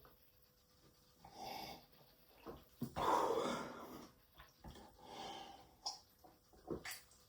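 A person breathing audibly: several breaths, the loudest a long exhale about three seconds in, with a few small clicks between.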